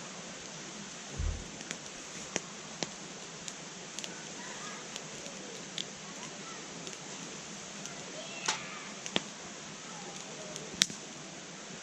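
Wood fire in a fire pit crackling: irregular sharp pops and snaps over a steady hiss, with a dull thump about a second in and the loudest pop near the end.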